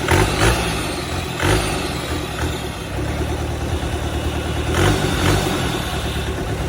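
Diesel engine running on test, with a few brief louder surges about half a second, a second and a half, and five seconds in.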